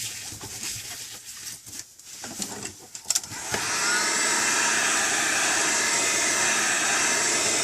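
Heat gun switched on about halfway through, a brief rising whine as its fan spins up, then a steady blowing rush as it heats the tablet's glass to soften the adhesive. Before it comes on there are light clicks and rustling of handling.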